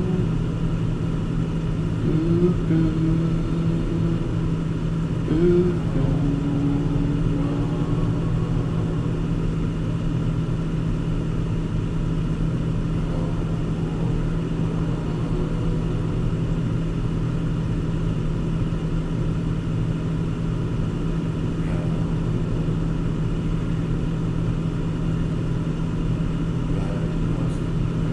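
Car engine and road noise as a steady low drone heard from inside the cabin while driving, with a few brief pitched sounds in the first few seconds.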